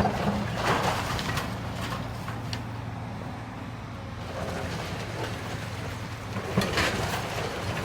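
Heavy demolition machine's engine running steadily while the building is torn apart, with scattered crunches and cracks of breaking material; the sharpest cracks come near the start and near the end.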